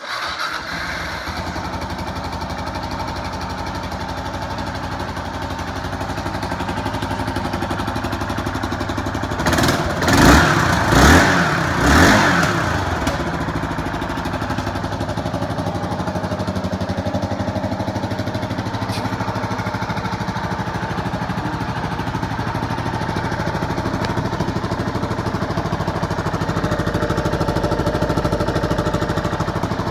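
Kawasaki KLR 650's single-cylinder four-stroke engine idling, blipped three times in quick succession about a third of the way in, then settling back to a steady idle.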